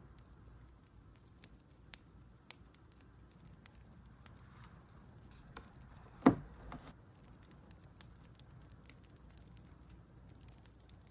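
Wood fire crackling softly with scattered sharp pops. About six seconds in there is one much louder short knock.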